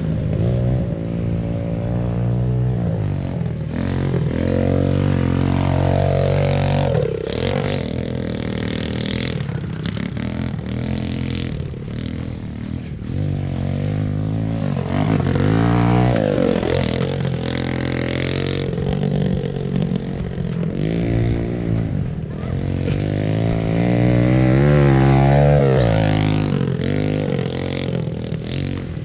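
Pit bike engines revving up and down as they are ridden, the pitch rising and falling every few seconds.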